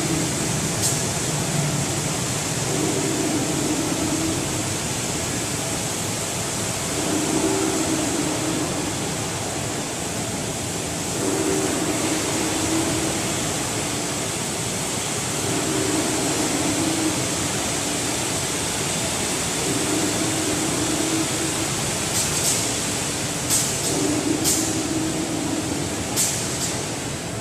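Large-format automatic screen washout booth running: a steady hiss of water spray, with a low hum that swells and fades about every four seconds. A few sharp clicks come near the end.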